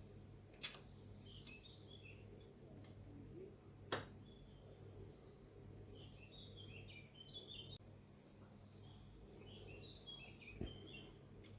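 Near silence, broken by three sharp clicks as small die-cast toy car parts are handled and fitted together. Faint bird twittering comes and goes three times.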